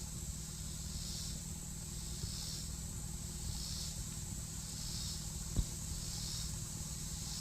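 Outdoor insect chorus: a steady high hiss with a pulsed buzz repeating a little less than once a second, over a low rumble. There is a single sharp tap a little past the middle.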